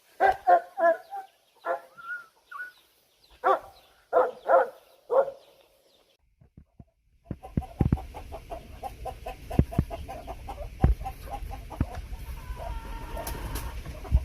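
Chickens clucking in loud bursts of calls for the first five seconds. After a short lull, about seven seconds in, a steady low rumble with rapid clicking starts and continues, with softer clucking over it.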